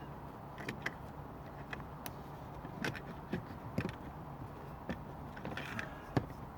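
Hands working on plastic car dashboard parts: scattered light clicks and knocks as pieces are handled, with a sharper knock about six seconds in.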